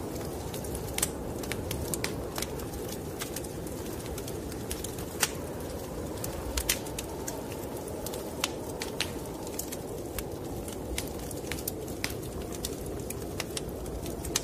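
Wood fire crackling in a fireplace, with irregular sharp pops and snaps over a steady low rush like a snowstorm wind.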